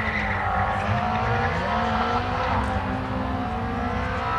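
Rally car engine running hard, its pitch rising a few times as it revs.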